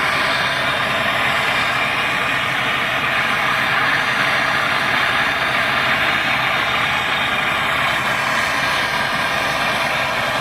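Brazing torch flame burning steadily on copper pipe, an even hiss that does not change.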